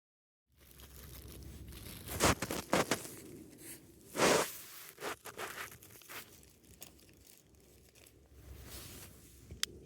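Tearing and crinkling of some material, with a few loud rasping bursts about two and four seconds in, then softer rustles and a few sharp clicks near the end.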